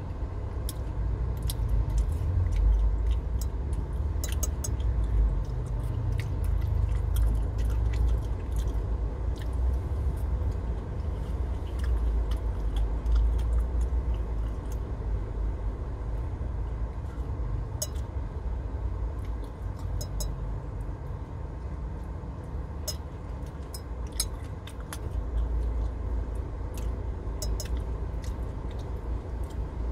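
Close-up chewing and mouth sounds of someone eating siomay and batagor with a fork, with scattered sharp clicks of the metal fork against a glass plate, over a low, uneven rumble.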